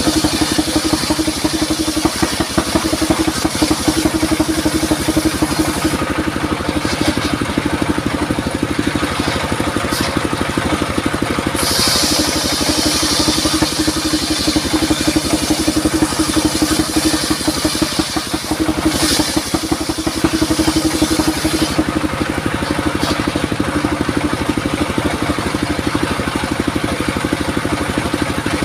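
Engine of a circular sawmill running steadily with a dense pulsing hum. A brighter hiss joins for about ten seconds in the middle.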